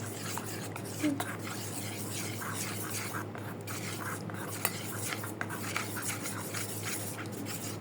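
A spoon stirring and scraping in a small bowl, a run of small clicks and scrapes while mixing the parrot chick's hand-feeding food, over a steady low hum.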